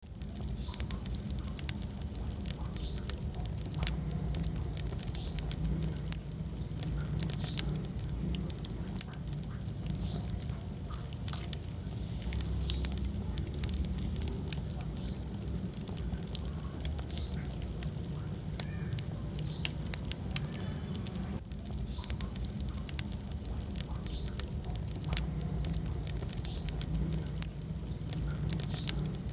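Wood fire in a fireplace crackling, with sharp irregular pops and snaps over a steady low rumble of the burning logs.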